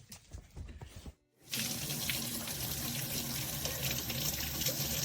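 Water running steadily from a tap, starting after a brief silence about a second and a half in.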